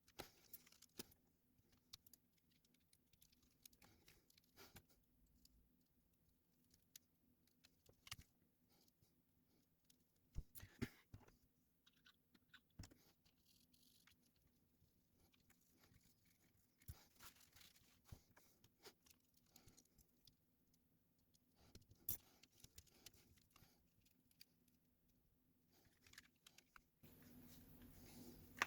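Near silence broken by sparse, faint clicks and taps of small tools and plastic parts being handled, as the controller's analog stick is being replaced; the clearest come about ten seconds in, twice in quick succession, and again just after twenty seconds.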